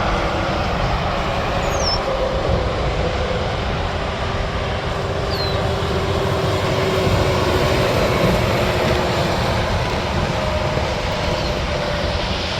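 Steady roar of heavy interstate traffic, with tractor-trailers and cars passing at highway speed; tyre noise and engines blend together, with a faint whine that shifts slowly in pitch.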